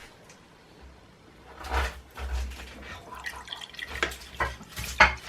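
Kitchen tap running water into a glass to make squash, starting after about a second and a half, with uneven splashing and a few sharp clinks of glass and crockery.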